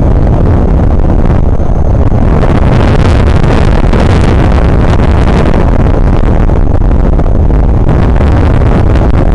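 Strong wind buffeting the microphone: a loud, continuous low rumble, with gusts swelling and easing from about two seconds in.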